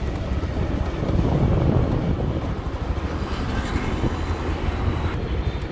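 Steady wind rush on the microphone mixed with engine and road noise from a moving two-wheeler.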